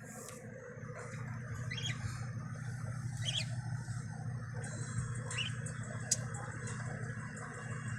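Pet lovebirds giving a few short, separate chirps over a steady low hum, with a sharp click about six seconds in.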